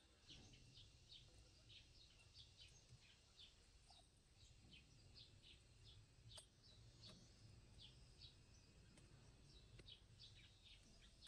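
Near silence with faint birds chirping, many short high calls scattered throughout; a single light click about six seconds in.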